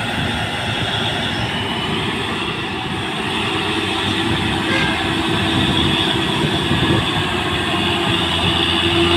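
Heavily loaded truck's diesel engine labouring up a steep climb: a steady drone that slowly grows louder, with a whining tone that strengthens near the end.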